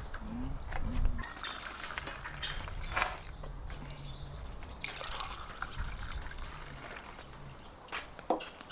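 Liquid trickling and pouring, with scattered light clicks and knocks, one louder near the end.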